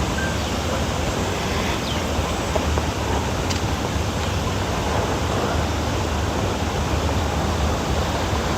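Steady rushing of cascading water from the garden's water walls, with a low wind rumble on the microphone underneath.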